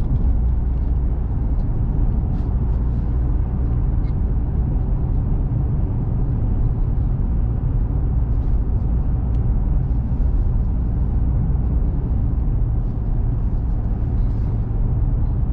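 Steady cabin noise of a small truck driving at road speed: an even low rumble from the engine and road, with no change in pace.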